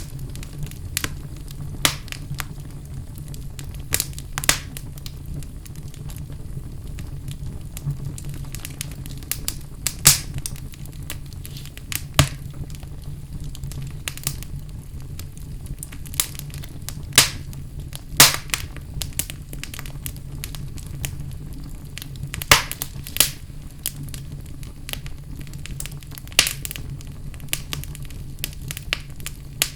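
Wood fire burning in a fireplace, crackling with sharp pops at irregular moments over a steady low rumble of the flames.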